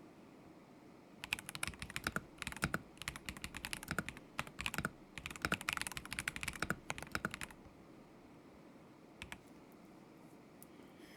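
Typing on a KZZI K75 Pro mechanical keyboard with Moment linear switches: rapid runs of keystrokes in several bursts with short pauses. It starts about a second in and stops after about six seconds, with a last couple of keystrokes a little later.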